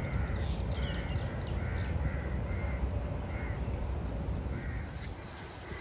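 A bird calling repeatedly: short calls about two a second at first, thinning out after the first couple of seconds, over a steady low outdoor rumble.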